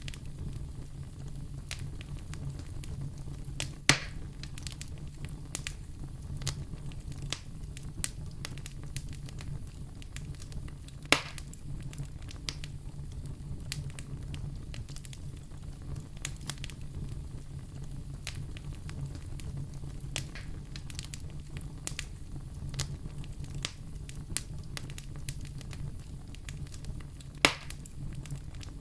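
Wood fire crackling in a fireplace over a steady low rumble, with frequent small snaps and three louder pops.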